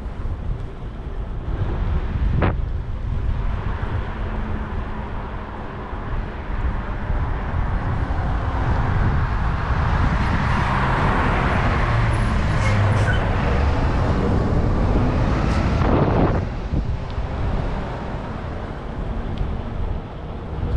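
Road traffic heard from a bicycle in city streets: a steady low rumble, with a vehicle passing close that swells through the middle and drops away about three-quarters of the way in. There are two sharp knocks.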